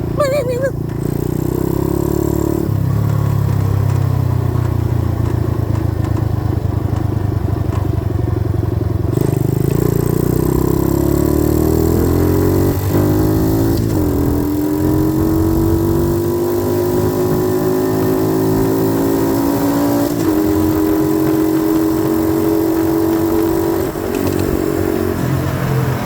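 90cc dirt bike engine running under way, its pitch climbing as it pulls, dropping at a gear change about fourteen seconds in, climbing again and dropping at another shift about twenty seconds in, then holding steady.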